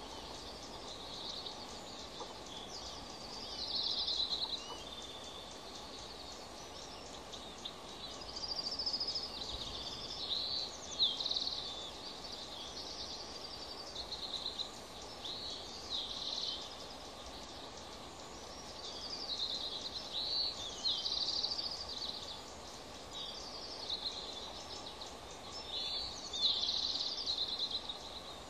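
High, twittering bird calls in short bouts every few seconds, over a steady hiss.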